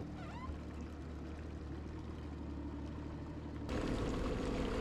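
Low steady engine hum with water sloshing, as from a personal watercraft idling on the lake. About three and a half seconds in, it cuts abruptly to louder wind and water noise.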